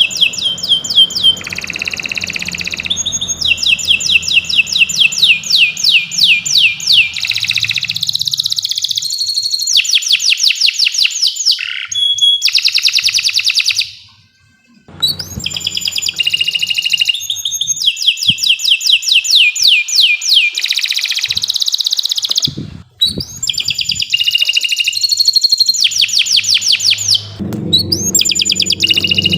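Domestic canary singing a long song of fast trills, phrases of rapidly repeated high notes strung one after another. The song breaks off briefly about halfway through, then carries on.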